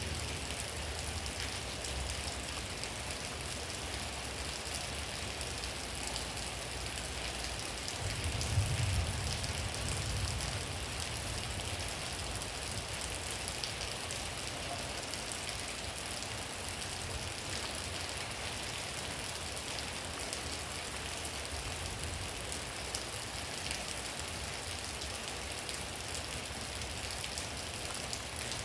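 Steady rain falling, an even hiss of drops on surfaces. A low rumble swells for a couple of seconds about eight seconds in, then fades back under the rain.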